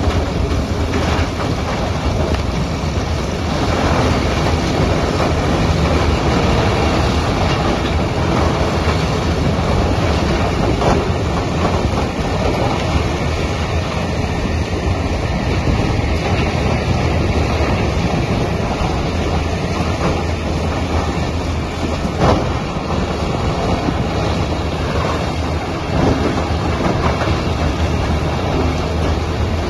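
Crawler-mounted hydraulic tub grinder running with a loud, steady mechanical din and a strong low hum, broken by a few sharp knocks.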